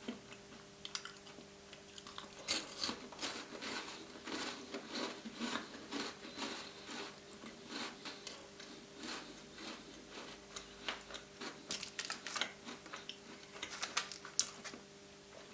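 A person chewing and crunching Tim Tam chocolate biscuits close to the microphone, with irregular crisp bites and chews.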